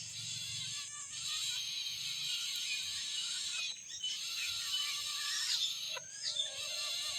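Outdoor wildlife ambience: a steady high insect drone with many short, scattered chirps and calls.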